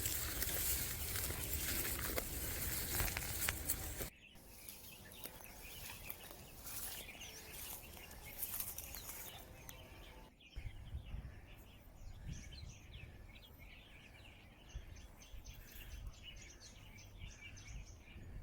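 Open-air hillside ambience: a loud rush of wind noise at first, then quieter background with short, high bird chirps repeating. The sound changes abruptly twice, about four seconds in and again about ten seconds in.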